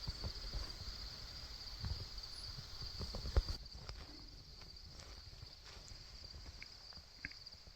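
Steady high insect chorus of crickets in the field. Soft low rustling and light knocks run under it for the first few seconds, with one sharper tap about three and a half seconds in, then it settles quieter.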